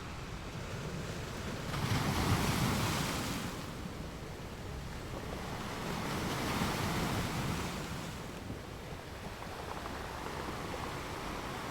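Ocean waves: a steady hiss of surf with two waves surging louder, about four seconds apart.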